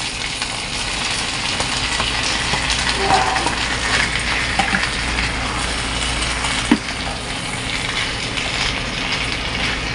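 Tofu cubes sizzling as they fry with chicken liver and onions in an electric pan, with a spatula scraping and knocking against the pan as it stirs them. One sharper knock comes about seven seconds in.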